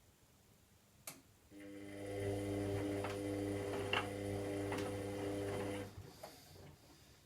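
Washing machine mid-cycle: a relay clicks, then a motor starts and hums steadily for about four seconds with a few light knocks, and stops with another click.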